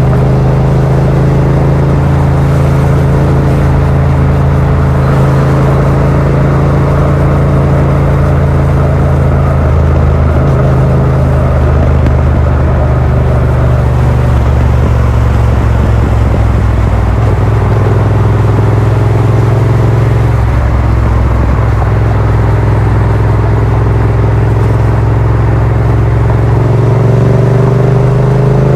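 Yamaha MT-07's 689 cc parallel-twin running through a Yoshimura R77 exhaust with its dB killer fitted, heard from the rider's seat while riding at a fairly steady pace. The engine note rises near the end as the bike accelerates.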